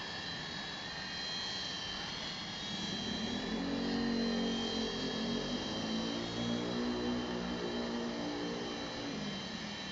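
Small electric RC helicopter flying: a steady high motor whine with rotor buzz. A lower hum swells in about three seconds in and fades near the end.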